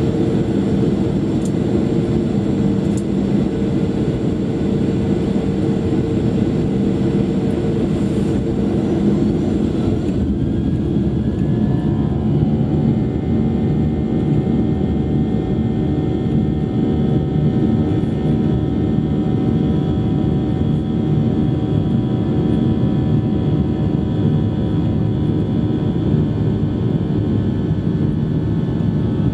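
Boeing 737-800 cabin noise with the steady roar of its CFM56-7B jet engines. About eleven seconds in, a cluster of whining tones rises and then holds steady as engine thrust comes up for takeoff.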